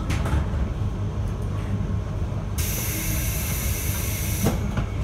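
JR Hokkaido 721 series electric train running between stations, heard from aboard: a steady low rumble from wheels and running gear. About two and a half seconds in, a high hiss comes on sharply and cuts off about two seconds later.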